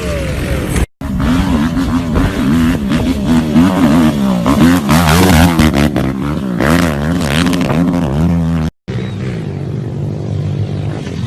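Motorcycle engines revving across three short clips, with the sound cutting out briefly about a second in and again near nine seconds. In the long middle stretch the engine's pitch swings rapidly up and down with the throttle; after the second cut it runs steadier and a little quieter.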